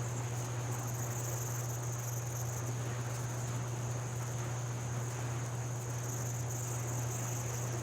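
Insects trilling steadily at a high, even pitch over the constant low rush of a flowing river.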